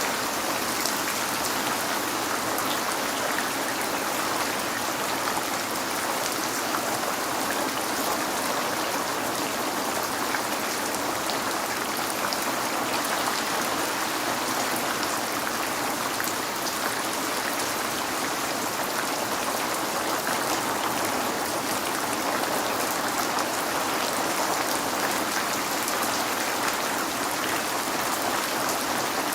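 Steady rain falling on a window, an even, dense hiss of many small drops that neither builds nor eases.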